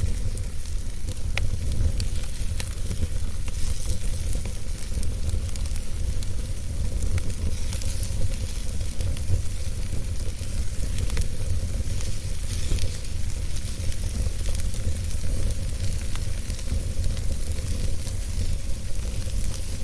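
Wood fire burning in a fireplace: a steady low rumble and hiss with frequent small crackles and pops of burning wood.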